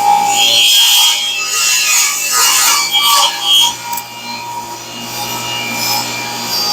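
Table saw ripping a thick black walnut slab with a rip-cut blade, a loud continuous cutting noise that eases off about two-thirds of the way through and builds again near the end.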